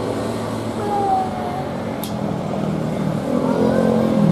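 Jet airliner engine noise, a loud, steady rushing drone, with voices coming in near the end.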